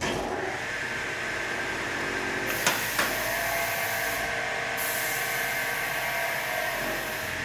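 Double miter saw running, its twin 3-horsepower motors and 16-inch blades giving a steady whine. Two sharp knocks come close together about three seconds in, and a high hiss comes and goes.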